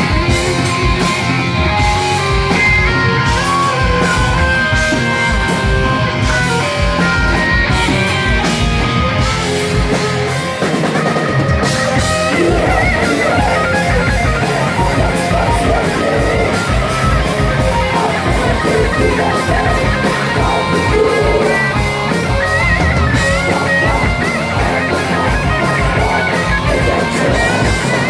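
A rock band playing live with distorted electric guitars and a drum kit.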